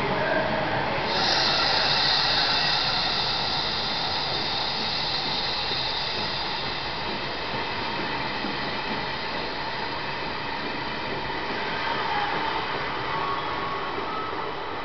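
Taiwan Railways tourist train running through an underground station at speed: the steady rush of the carriages passing. A high hiss joins about a second in and fades after several seconds, and the whole sound slowly dies away as the last car draws off into the tunnel.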